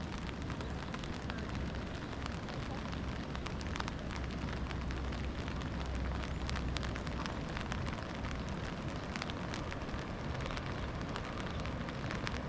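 Rain falling steadily, a constant hiss full of small scattered ticks of drops, over a low rumble.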